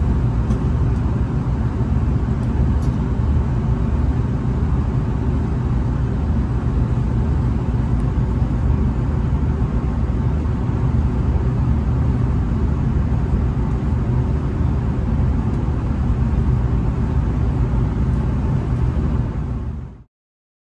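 Steady low rumble inside a V/Line VLocity diesel railcar as it moves slowly along the platform, with a few faint ticks in the first few seconds; the sound cuts off suddenly near the end.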